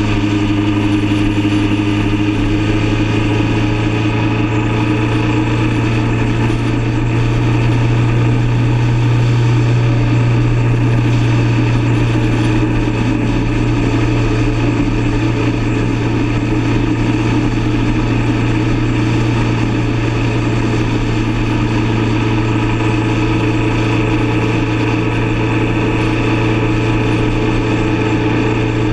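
Motorcycle engine running steadily at cruising speed, a continuous low drone that swells slightly about a third of the way in.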